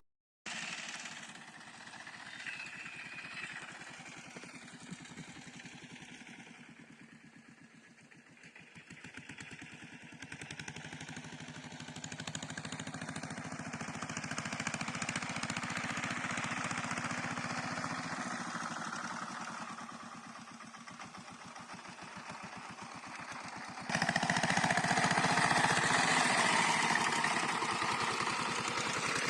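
A small engine running, its sound swelling and fading. It jumps abruptly louder about three-quarters of the way through.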